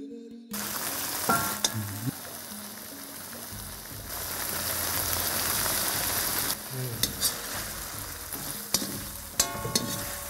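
Prawns sizzling in hot oil in a black iron kadai, stirred with a metal slotted ladle that scrapes and knocks against the pan, with a few short ringing clanks. The pepper-spice powder is being stirred through the prawns as they fry down.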